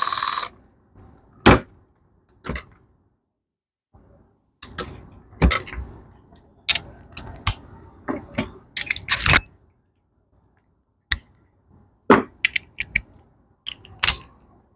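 Metal hand tools clinking and clicking in a string of separate sharp knocks as a socket and torque wrench are handled and set up for torquing the flywheel bolts. A short hiss comes right at the start.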